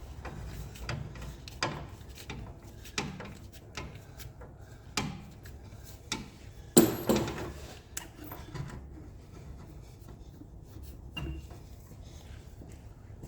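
Scattered clicks and knocks of hand work on parts and tools: about eight separate sharp taps, the loudest a quick double clack a little past halfway.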